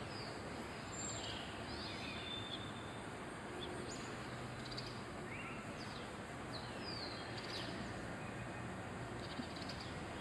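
Small birds chirping on and off in short, falling calls over a steady background hiss.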